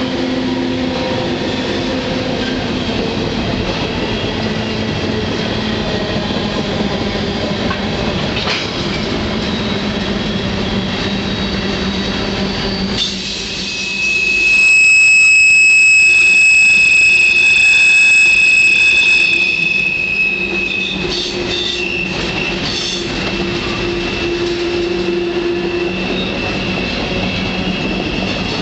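Freight train running, heard from aboard: a steady rumble and rattle of wheels and cars. From about fourteen to twenty seconds in, a loud, high steady squeal from the steel wheels rises over it, then fades back into the rumble.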